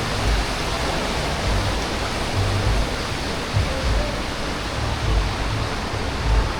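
Waterfall running heavy after recent rain, a steady rush of water, with irregular low rumbles under it.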